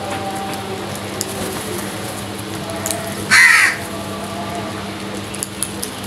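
A crow gives one loud caw lasting about half a second, a little past halfway, over a steady low hum.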